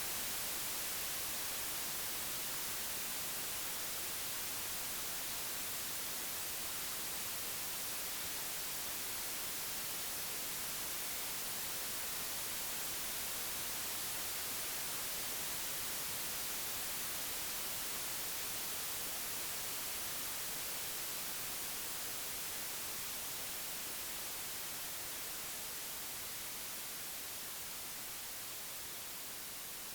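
Computer-generated white noise: a steady, even hiss with no tones or clicks, easing slowly quieter over the last third.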